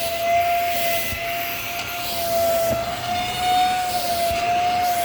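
Vacuum cleaner running: a steady high motor whine with a rush of air that swells and fades every second or so.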